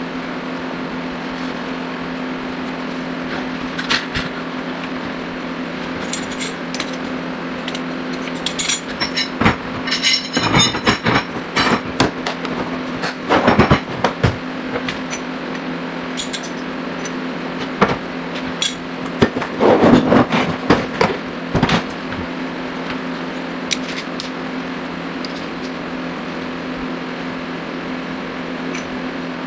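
Slide hammer working on a car's front wheel bearing: clusters of metallic clanks and clicks, about ten seconds in and again around twenty seconds in, over a steady low hum.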